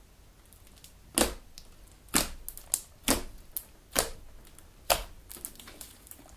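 Homemade Elmer's glue galaxy slime being kneaded and squeezed, giving a series of sharp pops and clicks. Five are loud, about one a second, with smaller crackles between.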